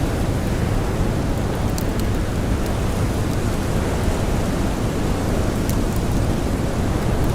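Blizzard wind blowing steadily, a dense low rush without pauses, with two faint crackles from a campfire about two seconds in and again near six seconds.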